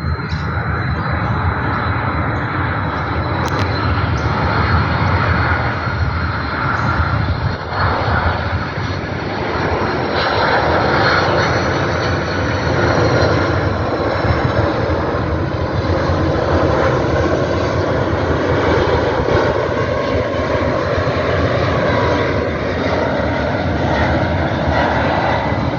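Airbus A330-300 twin-engine jet airliner on final approach, its engines at approach power making a steady rumble with a thin high whine.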